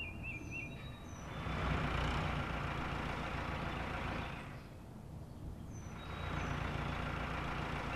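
Cartoon vehicle engine sound effects: an engine swells and fades as the delivery van drives off, then another engine swells up as the tractor drives in.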